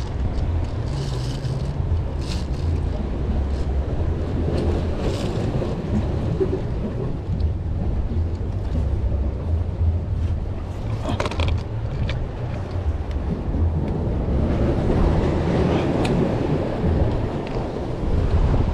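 Wind buffeting the microphone: a steady low rumble, with a few brief crackles.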